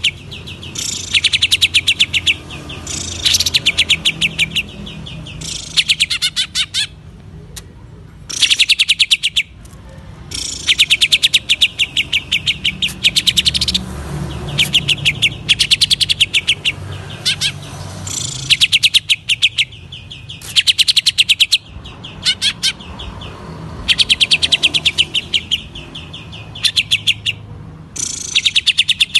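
Cucak ijo (green leafbird) singing in the rapid 'ngentrok' style: bursts of fast, evenly repeated high notes, each a second or two long, with short breaks between them.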